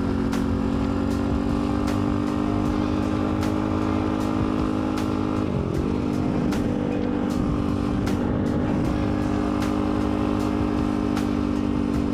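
Dirt bike engine running at a steady cruising speed, its pitch dipping and wobbling briefly about halfway through as the throttle changes, then settling again. Frequent sharp clicks run alongside it.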